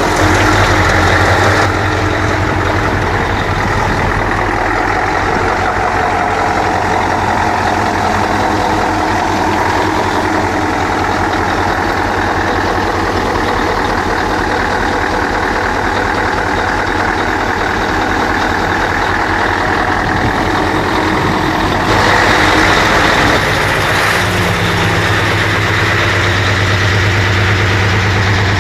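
Scania 143H truck's 14-litre V8 engine (450 hp) running steadily, with short louder stretches at the very start and about 22 seconds in.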